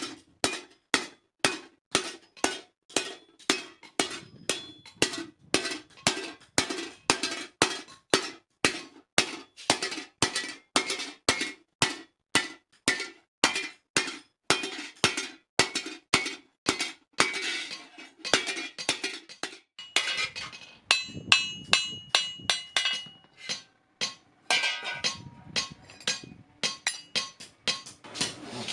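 Hand hammer striking metal on an anvil in a steady rhythm of about two blows a second, each with a short metallic ring, as in forging a spade blade. About twenty seconds in, the rhythm breaks into lighter, irregular strikes with a longer ringing tone.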